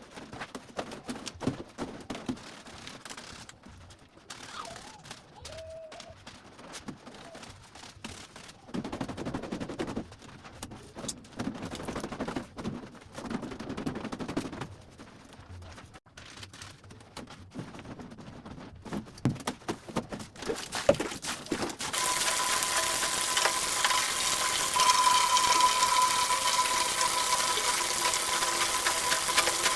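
Clothes being scrubbed by hand in soapy water: irregular rapid rubbing, slapping and splashing of wet fabric. About two-thirds of the way through, a tap is turned on and water runs steadily and loudly.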